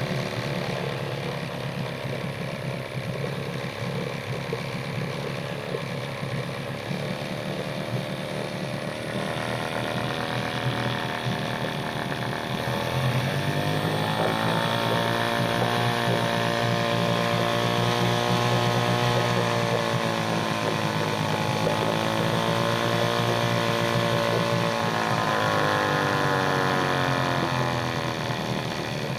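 Mercury 9.8 hp two-stroke twin-cylinder outboard motor idling, then revved up about halfway through. It holds at a higher speed with a slight dip, then eases back down toward idle near the end.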